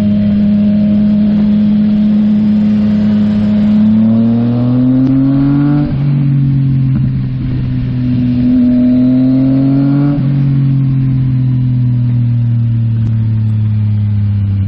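Sport motorcycle engine with an aftermarket exhaust, pulling hard: the pitch climbs twice and drops suddenly at each upshift, about six and ten seconds in, then settles into a steady cruise. Wind rush runs underneath.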